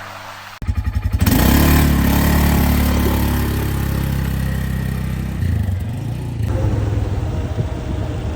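Small engine of an ATV running, loud and pulsing as it picks up about half a second in, then steadier and easing off a little near the end.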